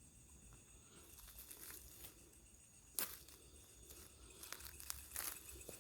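Crickets chirring steadily and faintly, with a sharp click about three seconds in and a few crackling rustles near the end.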